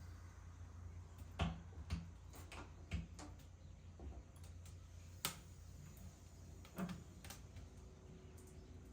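Faint, scattered clicks and light knocks, about six over several seconds, over a low steady hum.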